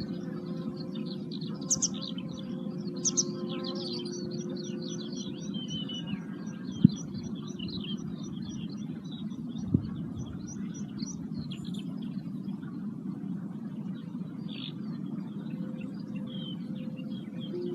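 Several wild birds chirping and singing together in quick high calls and trills, over a steady low hum with a faint held tone. Two sharp clicks, about three seconds apart, stand out in the middle.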